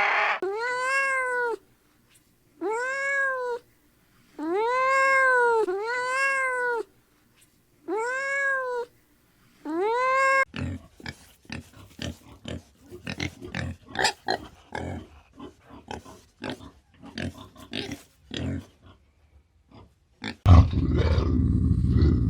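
An animal giving a series of about six drawn-out, meow-like calls that rise and fall in pitch, followed by a stretch of irregular sharp clicks and taps. Near the end a loud low rumble starts suddenly.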